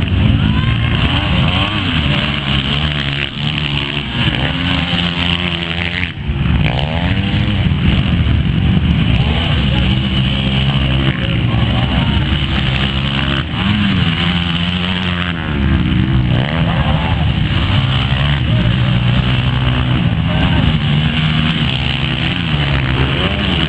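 Motocross motorcycle engines revving, their pitch rising and falling again and again as the bikes accelerate and shift, with a brief dip about six seconds in.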